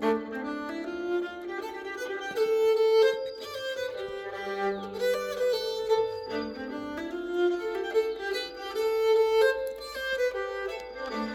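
Nyckelharpa, the Swedish keyed fiddle, bowed in a traditional folk tune, its sympathetic strings resonating under the melody.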